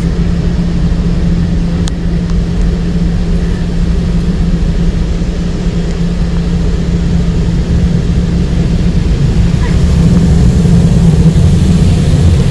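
Touchless automatic car wash running, heard from inside the car: high-pressure water jets and wash machinery make a steady low rumble with a constant hum, growing louder and hissier near the end as the spray comes closer.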